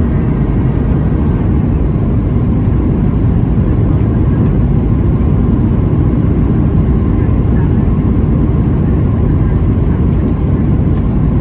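Steady low roar of a Boeing 737-700's CFM56 engines and airflow heard inside the passenger cabin, with a few faint steady tones above it.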